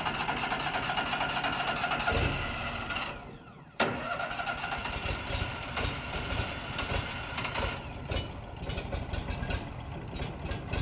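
Wallenstein BXMT4238 wood chipper's small gasoline engine running just after being started. It winds down about two to three seconds in, then runs again steadily from about four seconds in.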